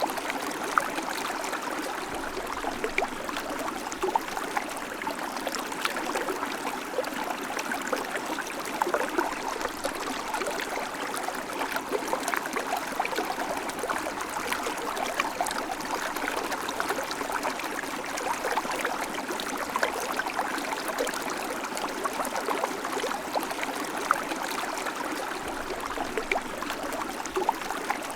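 River water flowing steadily over rocks, a continuous rushing and babbling with many small splashes and gurgles through it.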